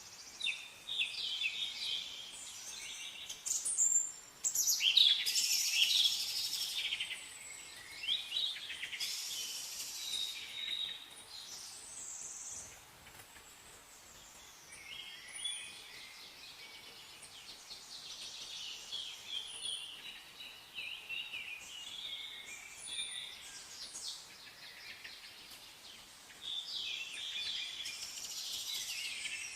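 Several songbirds chirping and singing together in a dense chorus of overlapping quick chirps and trills. It is busiest for the first several seconds, thins out through the middle, and picks up again near the end.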